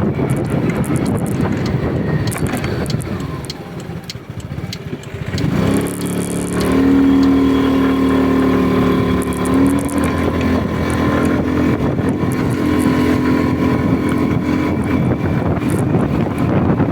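Vehicle engine running on the road, with rushing wind and road noise at first; about five and a half seconds in, the engine note rises as it accelerates, then holds steady.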